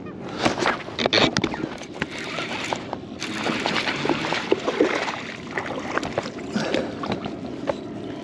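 Irregular splashing and sloshing of water at the side of a kayak as a hooked bass is brought in beside it.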